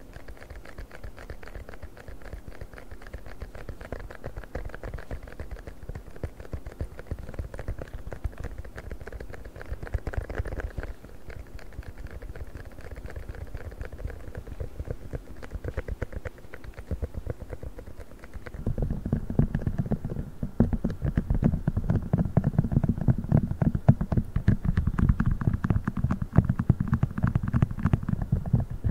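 Fast, dense tapping on a silicone funnel. About two-thirds of the way through, the taps turn louder and deeper.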